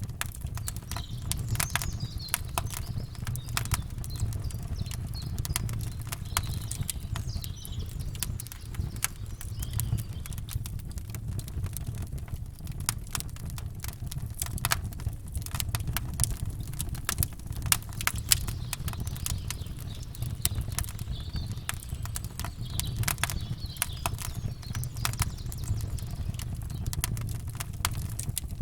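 Campfire crackling, with frequent sharp pops and snaps over a steady low rumble. Faint bird calls come through a couple of times.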